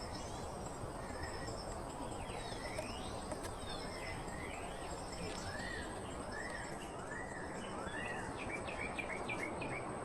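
Forest insects chirping, with a steady high drone above them. A bird calls over this in a run of repeated rising-and-falling whistled notes, which quicken into short notes near the end.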